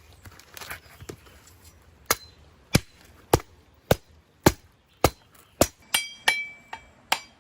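A blade chopping with a dozen sharp, evenly spaced strikes, a little under two a second, starting about two seconds in. The last few strikes ring with a metallic tone.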